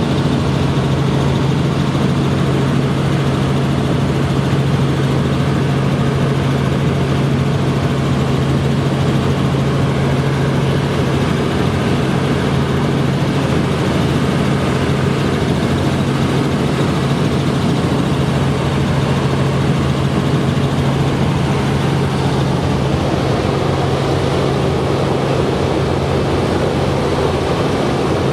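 Tourist helicopter's engine and rotor running, a loud steady drone with a strong low hum.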